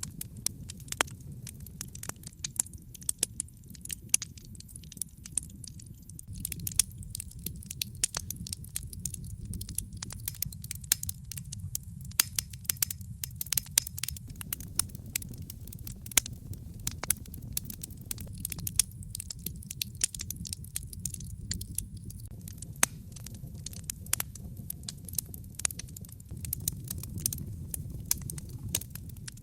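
Wood fire in a fireplace crackling and popping irregularly over a steady low rumble of burning.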